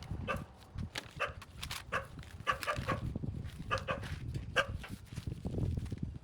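A dog barking repeatedly in short calls, over a steady low rumble.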